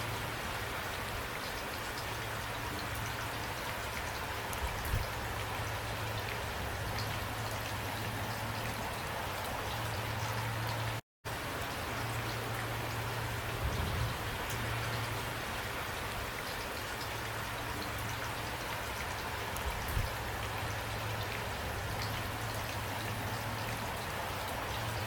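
Steady heavy rain falling on a surface, a dense even hiss with scattered sharper drop ticks. About eleven seconds in, the sound cuts out completely for a split second, then resumes.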